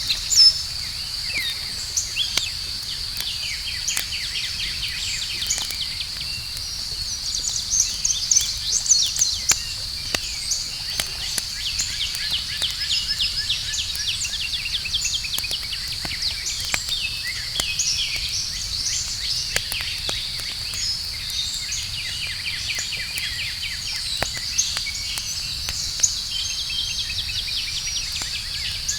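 Outdoor campfire ambience: a steady high insect drone with frequent bird chirps and trills over it, and scattered sharp crackles from the burning wood.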